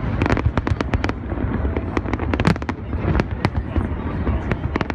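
Fireworks display going off: many sharp bangs and pops in quick, irregular succession over a steady low rumble.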